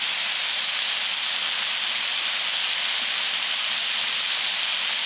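Food frying in a hot pan: a steady, even sizzle.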